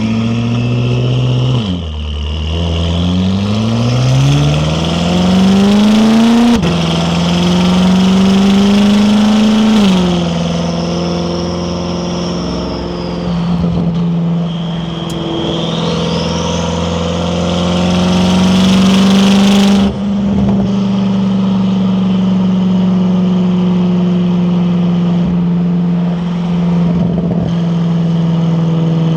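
BMW F10 M5 Competition's twin-turbo V8 with an Akrapovic exhaust accelerating hard, its pitch climbing through the gears with quick drops at each upshift, then settling into a steady drone at part throttle.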